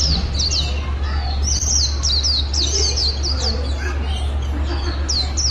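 Songbird chirping in quick runs of short, high notes, each sliding downward, with a pause in the chirping a little past the middle. A steady low hum runs underneath.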